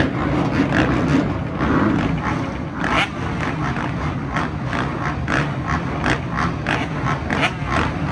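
Dirt bike and ATV engines running on a motocross track: a steady low rumble with many short, sharp bursts.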